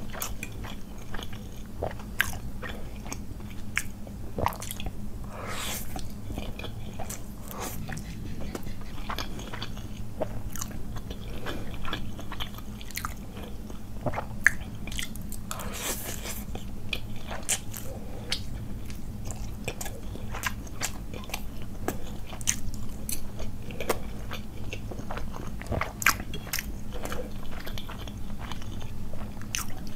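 Close-miked chewing of a mouthful of Maggi masala noodles, with many short clicks and smacks of the mouth throughout.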